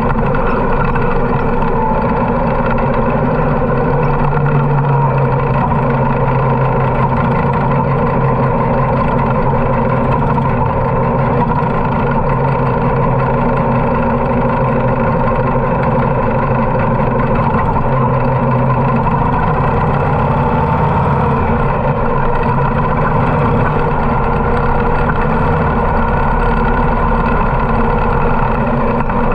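Harley-Davidson V-twin motorcycle engine running steadily under way, with little change in speed.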